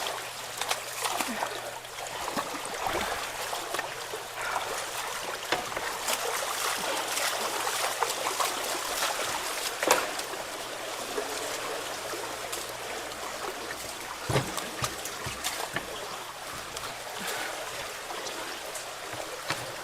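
Running water trickling and splashing as debris is raked out from around a blocked culvert, with scattered small clicks and knocks and one sharper knock about halfway through.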